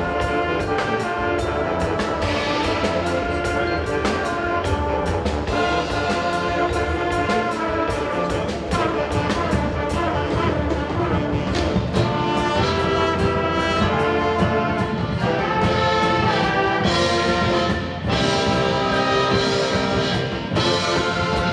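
Indoor winds ensemble playing live: brass and woodwinds in full sustained chords, trombones and trumpets to the fore, with percussion hits marking the beat.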